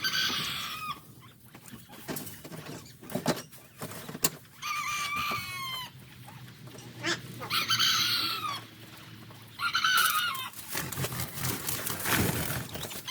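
Chickens calling loudly: about four drawn-out calls, each about a second long, with a couple of sharp knocks in between.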